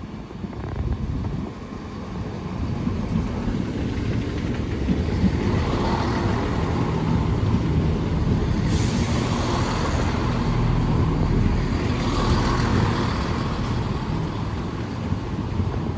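A train running through the station: a heavy low rumble with a faint steady engine-like hum, building over the first few seconds and staying loud to the end.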